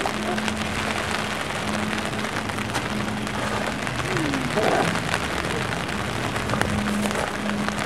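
Steady rain falling, with many small drops ticking on surfaces close by.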